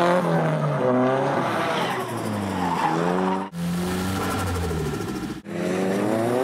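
Nissan Silvia S15's turbocharged SR20DET four-cylinder revving hard, the revs climbing and dropping again and again through drifts, with tyre squeal. The sound breaks off abruptly about three and a half and five and a half seconds in as the shots change.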